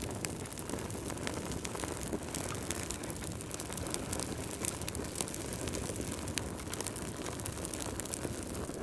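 Fireplace fire crackling: a steady low rush of flames with frequent small, irregular pops and snaps.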